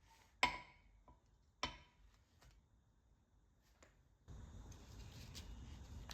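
Two sharp clicks about a second apart, each with a brief ring, then a few faint ticks; a steady background hiss comes in about four seconds in.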